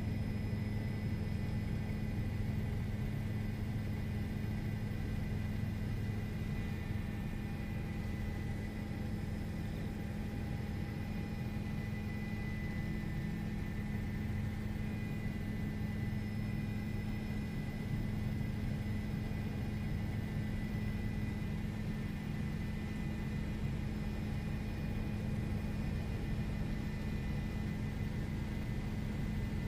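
Steady drone of a news helicopter's engine and rotors heard from inside the aircraft: a constant low hum with a faint high whine over it.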